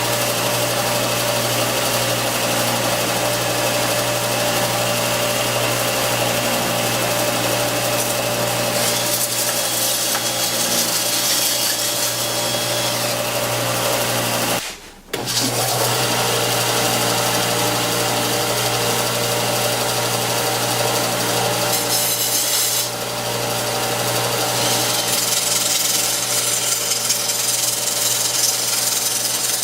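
Belt sander running steadily while a drill spins a wooden strip against the belt in a dowel-making jig, sanding it round into a dowel. The sound cuts out for a moment about halfway through, then picks up again.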